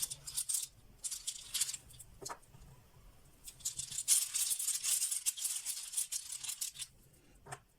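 Runes rattling and clicking against one another as they are shaken in a pouch, in several spells, the longest from about three and a half to seven seconds in. A couple of separate clicks near the end.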